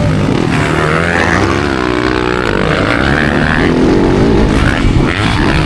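Several motocross bike engines racing, their pitch rising and falling as the riders work the throttle and shift.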